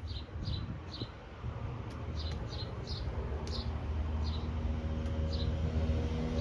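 A small bird chirping repeatedly, short high calls that each dip slightly in pitch, over a low background rumble. Past the middle, a vehicle engine's steady hum grows louder as it approaches.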